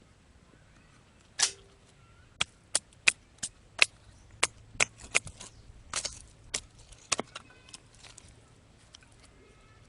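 Firewood being split into thin kindling: about a dozen sharp, irregular cracks and knocks of wood splitting and snapping, spaced a fraction of a second apart, then stopping about eight seconds in.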